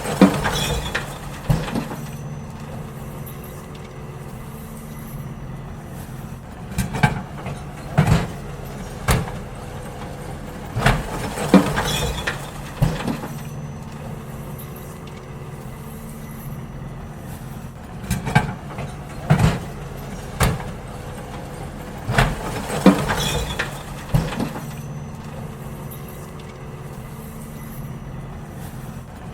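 Garbage truck's engine running steadily while bins are emptied, with groups of loud clanks and bangs every few seconds.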